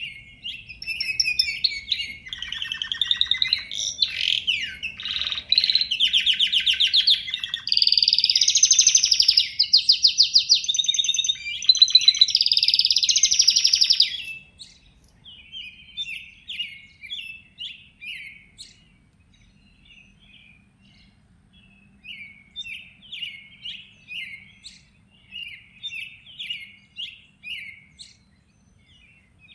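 Birds singing: loud, fast trilling phrases for about the first half, then softer short chirps repeated every second or so.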